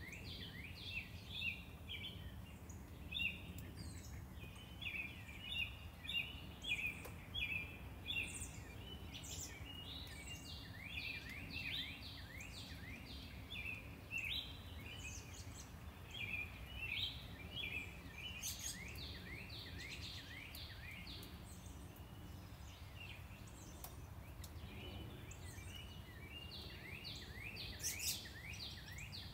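Birds chirping in quick, repeated runs of short sweeping notes, over a steady low rumble of distant traffic.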